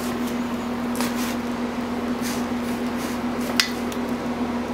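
A few light metallic clicks and knocks, the sharpest about three and a half seconds in, as the Suzuki Burgman 650's center stand is pulled free of the engine, over a steady hum.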